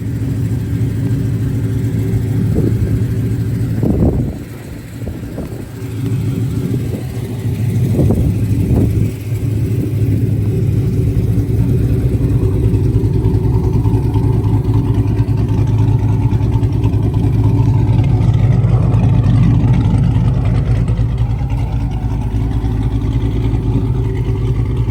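Cammed 6.1 Hemi V8 of a Chrysler 300 SRT8 running, a steady deep exhaust note with a few short louder blips around four and eight seconds in.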